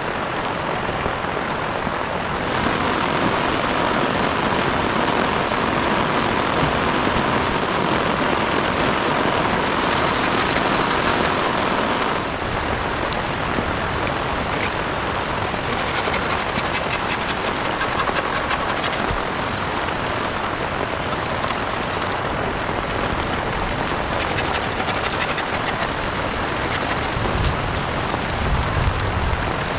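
Heavy rain falling steadily, a dense even hiss with no let-up, its tone shifting abruptly twice; a low rumble joins in near the end.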